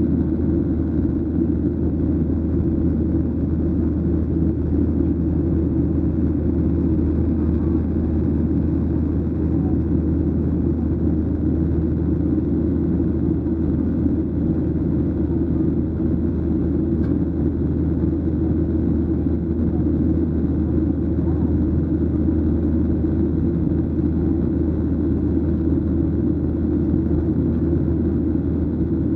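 Steady low drone inside the cabin of a Boeing 737-800, the noise of its engines and airflow, unchanging throughout.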